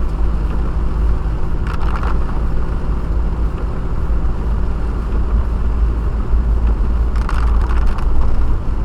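Car driving, heard from inside the cabin: a steady low rumble of engine and road noise, with two brief higher sounds about two seconds in and again near the end.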